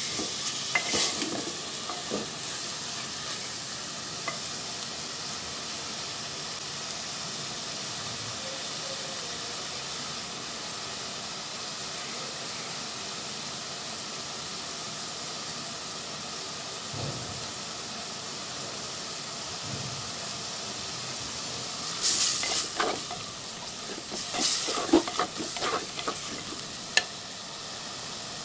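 Chopped vegetable stalks and potato frying in oil and spice paste in a clay pot, a steady sizzle as they are sautéed. A wooden spatula scrapes and stirs them in the first couple of seconds and again through the last several seconds.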